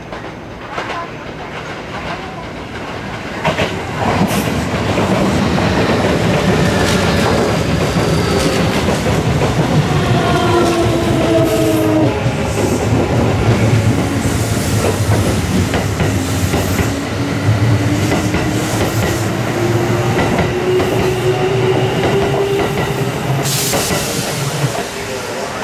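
Electric commuter trains running past close by: a steady rumble with wheels clattering over rail joints and points, louder from about four seconds in. A motor whine falls in pitch around the middle, and later a second one rises slowly as another train picks up speed.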